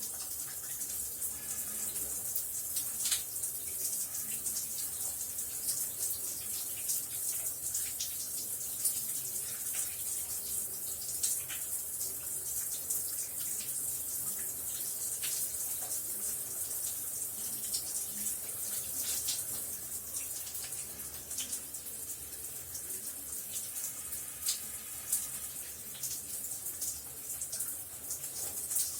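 Shower water running steadily: a constant high hiss of spray with scattered small splashes and patters.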